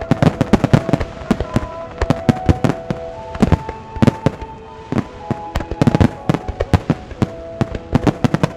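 A rapid barrage of aerial firework shells bursting, several sharp bangs a second and many overlapping, over music with long held notes.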